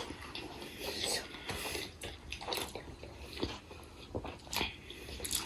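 Close-miked eating sounds: wet chewing and mouth clicks while eating steamed chicken momo, coming as irregular short ticks.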